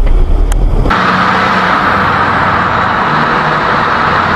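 Steady road and engine noise of a car being driven. The sound changes abruptly about a second in, from a deep rumble to a brighter, steady hiss with a low engine hum.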